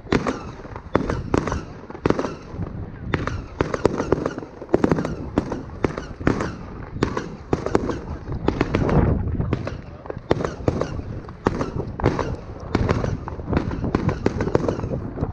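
Fireworks display: a rapid, continuous barrage of bangs and crackles from aerial shells, several per second, with a heavier rumble of blasts about nine seconds in.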